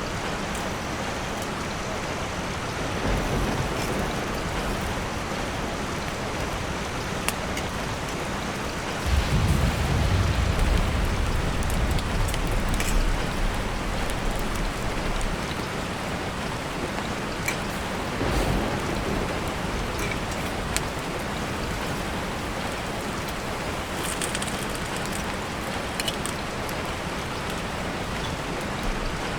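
Steady rain falling, with scattered drops ticking. A deep low rumble swells up about nine seconds in and lasts several seconds; fainter ones come a few seconds in and again past the middle.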